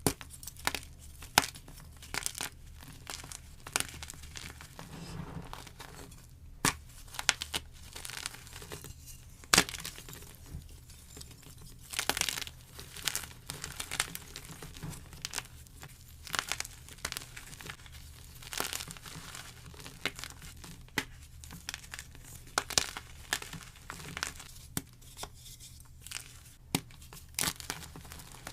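Block gym chalk being crushed and broken up, a steady run of irregular crunchy snaps and crumbling crackles, some sharp single cracks standing out.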